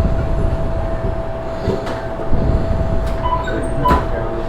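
Sandwich-counter background noise: a steady hum over a low rumble, with a few sharp clicks and short clinks about two and four seconds in.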